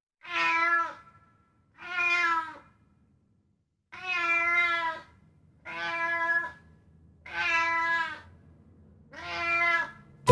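Cat meowing six times in a row, each meow about a second long with a short pause between.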